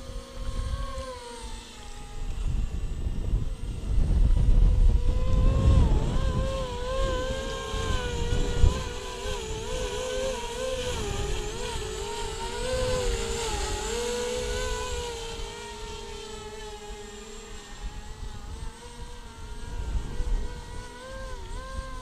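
Electric motors and propellers of an XK X450 VTOL model plane flying in quadcopter mode, a steady whine whose pitch wavers up and down as it is buffeted by gusty wind. Wind rumbles on the microphone, loudest from about three to nine seconds in.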